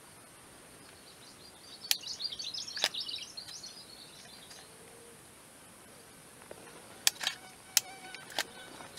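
Outdoor ambience with a burst of rapid high chirping, a small bird twittering, for about three seconds starting a second and a half in. Several sharp clicks fall among the chirps and in a cluster near the end.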